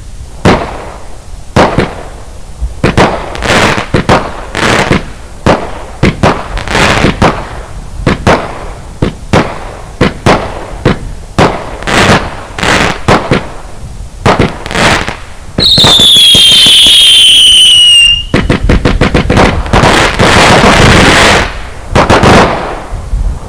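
The 'Texas Tornado' firework firing a string of sharp shots and bursts, roughly one or two a second. Past the middle, a loud whistle glides down in pitch for about two and a half seconds, followed by a dense run of rapid pops and more shots.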